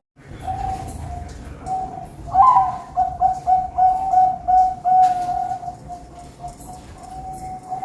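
Perkutut (zebra doves) cooing, several birds' coos overlapping in a near-continuous run. About two and a half seconds in, one bird gives a louder series of quick, repeated coo notes lasting about two and a half seconds.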